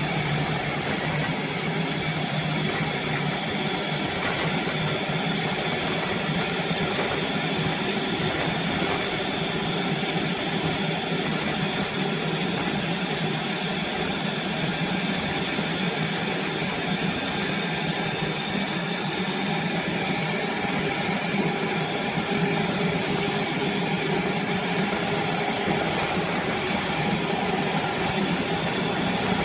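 Helicopter turbine engine running steadily: a high, even whine over a constant rushing noise.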